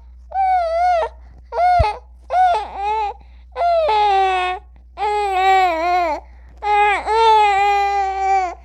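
Newborn baby crying: a series of about seven high-pitched wails with short breaths between them, the later ones drawn out to a second or more.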